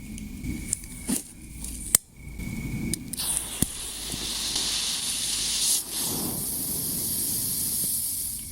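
Steady hissing of burning pyrotechnic composition, starting about three seconds in after a few sharp clicks and knocks, with a brief dip near six seconds.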